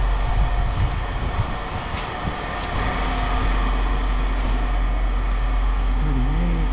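A large engine or machine running steadily, with an uneven low rumble in the first few seconds that settles into a steady drone.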